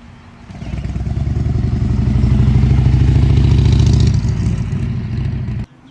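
A car's engine and exhaust as it drives in close by with a throbbing, pulsing note. It grows louder about half a second in, then stops abruptly near the end.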